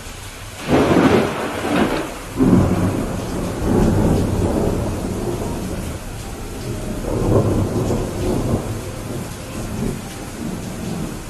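Thunder over steady rain: a sudden crack about a second in, a second burst soon after, then rolling rumbles that swell again midway and die away.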